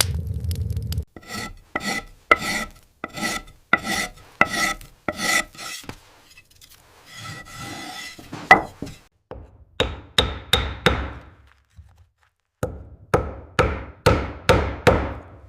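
A hand tool works wood in repeated rasping strokes, about two a second at first. A short pause follows, then more runs of strokes. A steady low noise stops about a second in.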